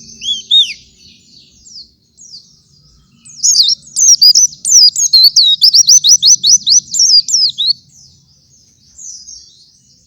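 White-eye (pleci) singing a fast, high twittering song. A short phrase at the start, then scattered notes, then a long rapid run of rising and falling notes from about three seconds in to near eight seconds.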